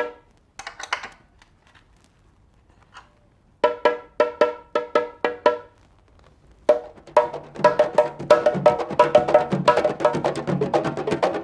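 Candombe percussion: a stick clacking on wood in short runs of sharp strokes, then from about seven seconds a dense, steady rhythm with deeper drum tones joining in.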